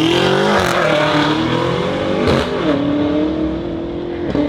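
Car engine revved hard, its pitch climbing, dropping and climbing again several times, with a noisy rush over it.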